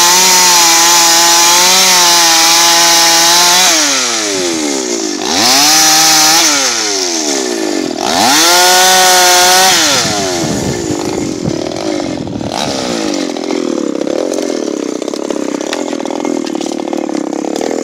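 Two-stroke chainsaw revved up to full speed three times, each burst lasting a few seconds with the pitch gliding down in between, then running lower and rougher near the end.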